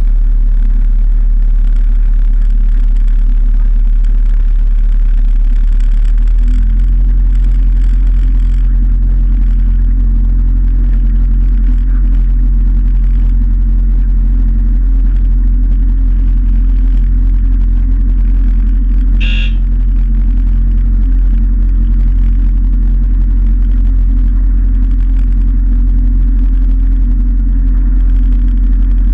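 Motorboat engine running steadily under way, a low drone that steps up about six seconds in as the throttle opens. A brief high squeak or beep is heard near the middle.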